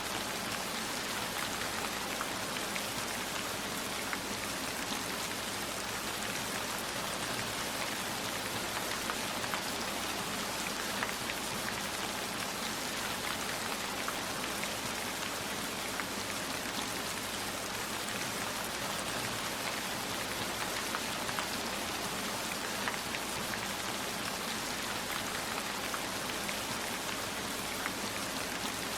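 Steady rainfall, an even hiss with scattered sharper drop ticks.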